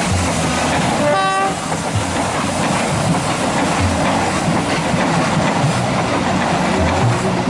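Train running past with dense, steady rumble and rail noise. A short horn toot sounds about a second in.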